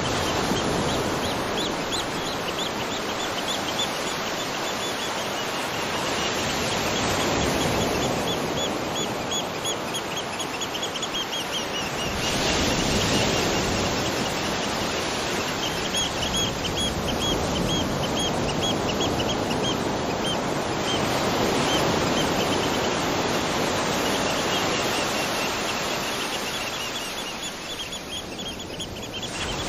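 Waterfall rushing steadily, with a bird calling over it in several long series of rapid, high, repeated notes.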